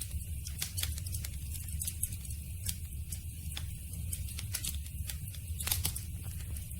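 Campfire burning: irregular sharp crackles and pops of burning wood over a steady low rumble of the flames, with a cluster of louder pops near the end.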